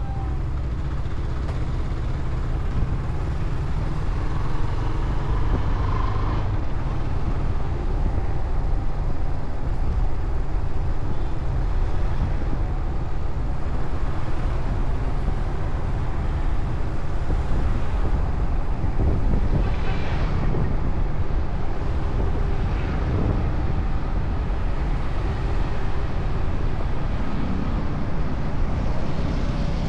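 Motorcycle riding along a road: a steady low rumble of engine and road noise.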